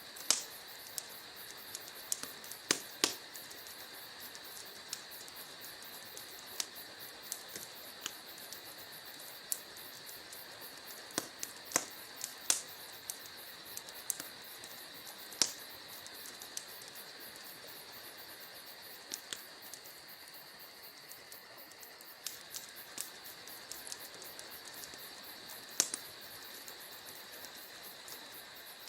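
Wood fire burning in a fireplace, crackling with irregular sharp pops and snaps, some louder than others, over a steady soft hiss.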